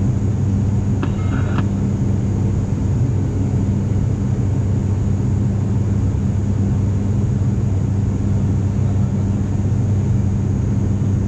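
ATR 42-500 turboprop engines and propellers heard from inside the cabin: a steady drone with a constant low propeller hum, the aircraft in its climb. A brief high tone sounds about a second in.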